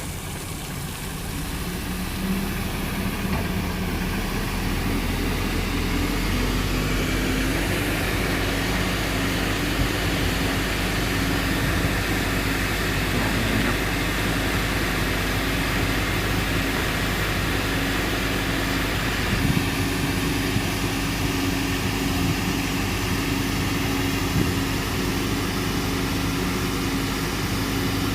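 Fire engine's engine running steadily, building up over the first few seconds and then holding a constant, loud hum.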